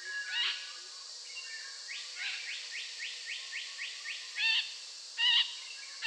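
Birds calling: a quick run of short rising notes, about four a second, then two louder calls about a second apart near the end, over faint background ambience.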